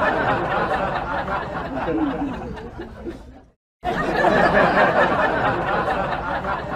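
Several people laughing and chattering together, cut off for a moment about three and a half seconds in and then starting again.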